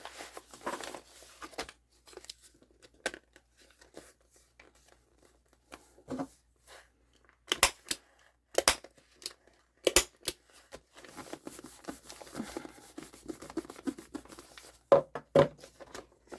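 Paper rustling and crinkling as pieces are handled for a junk journal page, with four sharp clacks in the middle that fit a stapler fastening the paper, and two dull knocks near the end.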